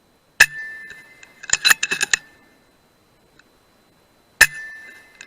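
Two shots from a .177 FX Dreamline PCP air rifle, about four seconds apart. Each is a sharp crack with a brief metallic ring that fades over about a second. Each shot is followed about a second later by a quick cluster of metallic clicks.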